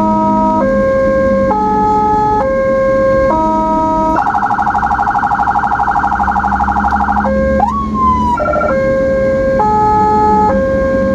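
Ambulance electronic siren sounding a hi-lo two-tone, switching about four seconds in to a rapid pulsing warble for about three seconds, then a short swoop and back to the hi-lo.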